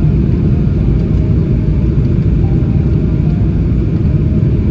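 Steady, loud rumble of a Boeing 777-300ER heard from inside the economy cabin.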